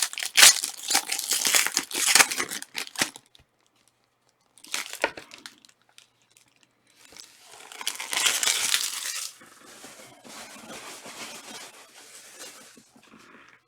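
Plastic trading-card pack wrappers being torn open and crinkled by hand, in several bouts of crackling rustle. The loudest bouts come at the start and from about seven to nine seconds in, with softer rustling after.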